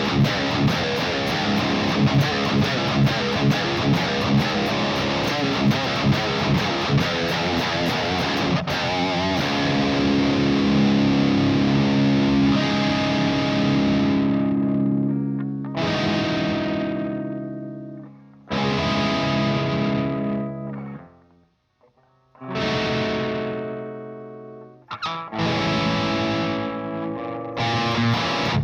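A Music Man Majesty electric guitar plays through a Mesa TC-100 tube amp's blue channel, heavily distorted and pushed by a boost pedal. It starts with a fast, tightly picked riff, then a run of held chords that ring out and fade one after another, with a short gap of near silence. The fast riff starts again near the end.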